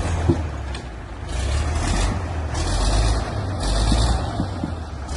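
Heavy diesel tractor engine working under load, its low rumble swelling and easing, with stretches of hissing about a second long that come and go.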